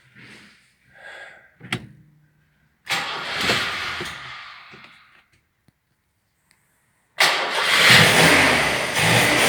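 The freshly rebuilt four-cylinder engine of a 1966 Peugeot 404 cabriolet is started for the first time after its rebuild. A first attempt about three seconds in makes a short burst that dies away. About seven seconds in the engine fires and keeps running loudly.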